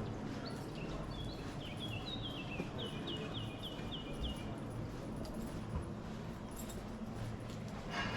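A songbird singing one phrase of short, quick, downward-slurred whistled notes, ending in a run of evenly repeated notes at about four a second, over a steady low hum.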